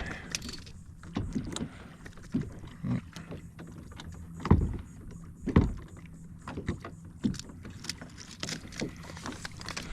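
Scattered clicks and knocks of fish and tackle being handled on a kayak, with two louder thumps near the middle.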